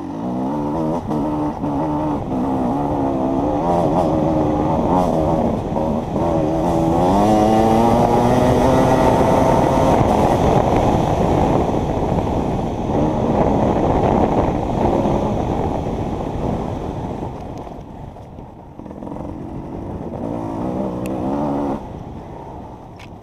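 Enduro motorcycle engine revving up and down under race riding off-road, with a long climb in pitch as it accelerates about a third of the way in, then varying revs, and easing off briefly twice in the second half.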